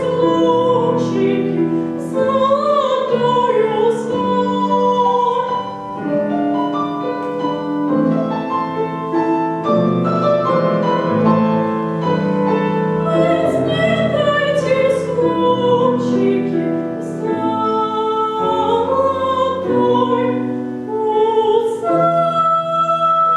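Operatic-style classical singing with vibrato, accompanied by piano.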